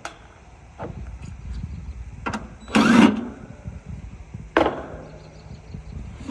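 Handling noises on a heat pump's outdoor unit while getting to the capacitor: a few sharp knocks and, about three seconds in, a louder half-second scraping rattle, over a low steady rumble.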